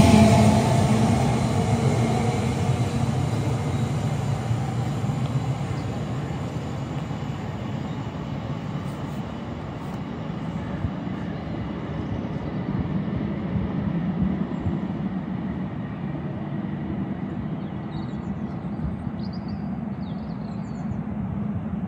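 Elizabeth Line Class 345 electric train pulling away from the platform, its running noise fading over several seconds. A steady low rumble remains afterwards.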